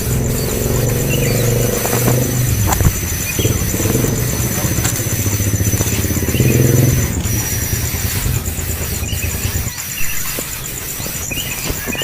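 A motor vehicle engine running, swelling and easing, then stopping abruptly about ten seconds in. A steady high pulsing buzz and faint short high chirps sound behind it.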